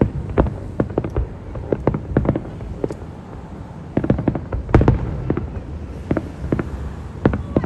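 Fireworks display: a rapid, irregular run of sharp bangs and cracks from bursting fireworks, densest about four to five seconds in.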